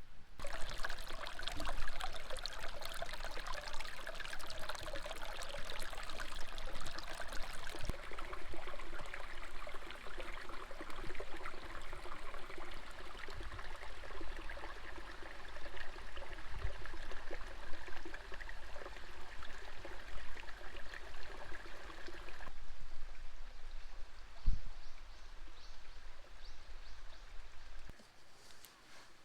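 Mountain stream water flowing and splashing over rocks in a steady rush. The sound shifts abruptly twice and falls away near the end.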